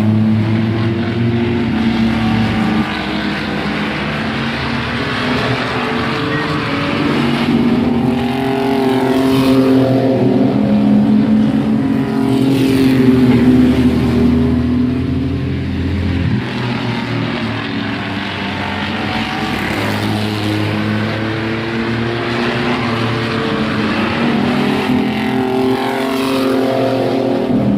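Several mini-truck racing engines running hard together in a pack, their pitch repeatedly rising and falling as the trucks go by and lift for the turns.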